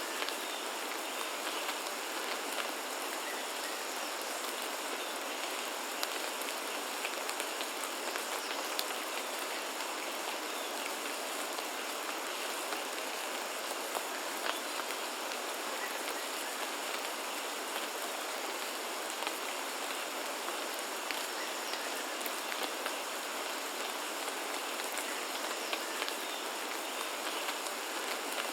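Steady rain falling, with many brief sharp ticks of single drops striking close by.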